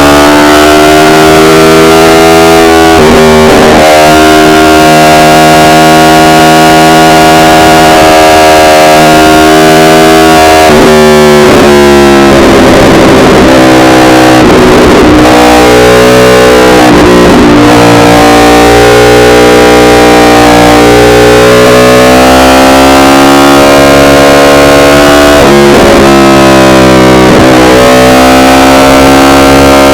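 Yamaha R1 inline-four engine and exhaust at speed, recorded so loud that it distorts. Its pitch holds high, then drops and climbs back three times: around 3 seconds in, for a longer, rougher stretch from about 11 to 16 seconds, and again near 26 seconds, as the throttle closes and reopens.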